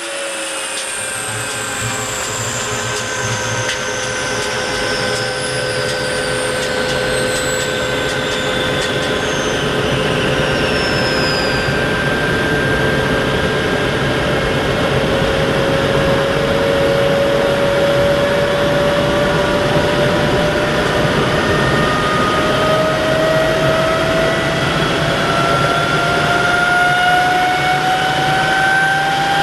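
Rolls-Royce Nene II centrifugal-flow turbojet running with a steady rushing noise and whine. The whine holds one pitch at first and then rises slowly from about halfway through, growing a little louder as the engine spools up.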